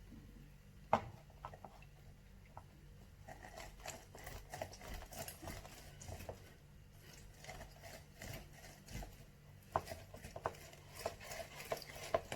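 Scattered light clicks and knocks of kitchen handling while a cut lime is squeezed by hand, over a faint steady low hum.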